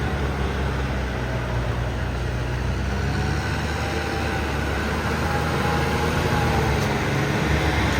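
An engine running steadily, a constant low drone without breaks.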